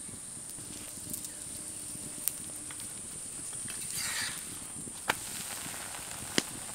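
Aloo paratha shallow-frying in a little oil on a hot tawa, a steady sizzle, with three sharp clicks spread across it.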